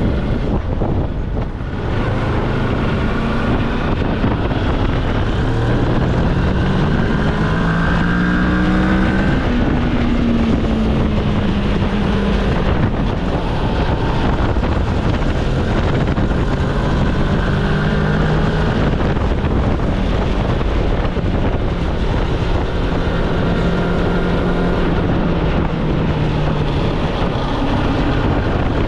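Moto Morini X-Cape's 649 cc parallel-twin engine under way, its pitch rising as it pulls through a gear and dropping at each shift, several times over. Heavy wind noise on the microphone runs underneath.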